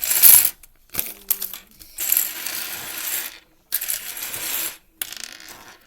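Small plastic Lego pieces clattering and rattling against each other and onto a table in four bursts, as they are poured out and pushed about.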